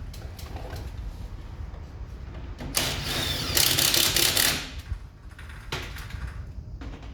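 Scattered clicks and rattles of hard parts being handled, with a loud scraping rush about three seconds in that lasts roughly two seconds, over a steady low rumble.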